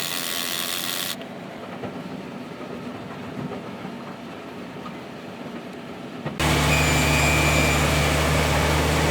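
A short rubbing hiss, then low mixed workshop noise, then from about six seconds in a heavy diesel engine running steadily at idle, starting abruptly.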